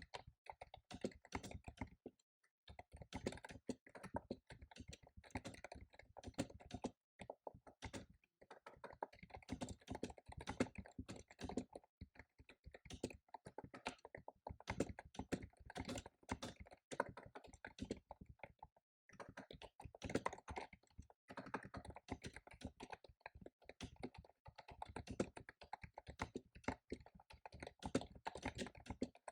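Fast typing on a computer keyboard: dense runs of key clicks broken by brief pauses every few seconds.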